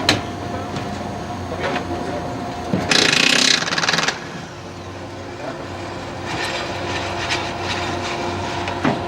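Workshop sounds of mechanics at work: scattered tool clicks and knocks over a steady machine hum, with a loud hiss lasting just over a second about three seconds in.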